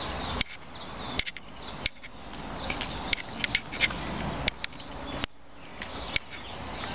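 Small birds chirping in short repeated calls, with footsteps on concrete.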